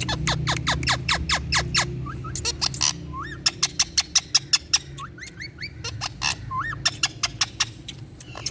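Indian ringneck parakeet calling in a rapid chattering series of short, sharp calls, most falling steeply in pitch, several a second. A few rising, curling whistles come in between, and a run of louder clipped calls falls in the middle.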